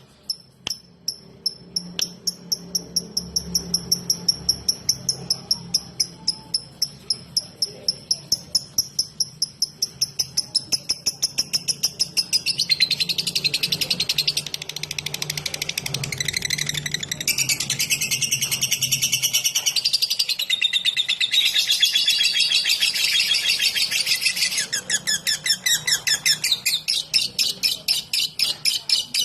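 Lovebird singing in the rapid 'ngetik' (typing) style: a long run of sharp, evenly repeated high chirps at about three a second. The chirps thicken into a dense chattering trill in the middle, then go back to separate chirps near the end.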